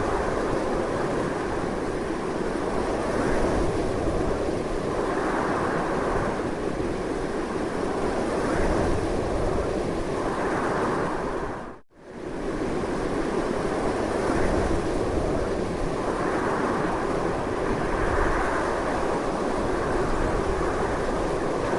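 Strong wind blowing steadily with slow gusty swells. About halfway through, it fades out almost to silence for a moment and then fades back in.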